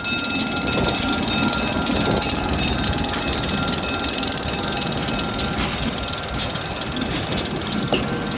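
New England Central diesel locomotive passing close at low speed, its engine running under a rapid, even clicking from the wheels rolling over the rails and crossing. The sound eases off slightly as it draws away.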